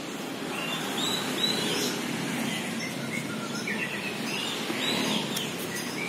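Small birds giving short, scattered chirps over a steady outdoor background hiss.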